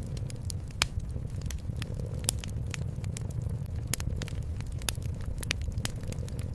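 Wood fire crackling in a fireplace, with irregular sharp pops, the loudest about a second and two seconds in, over a steady low rumble.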